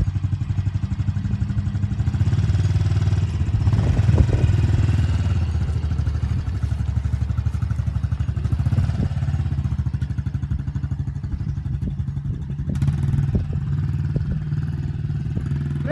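Small dirt bike engine running steadily, a little louder around four seconds in.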